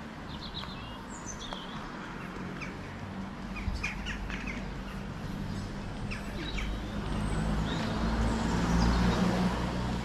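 Small birds chirping in short, scattered calls, over the low hum of a motor vehicle that grows louder in the last few seconds.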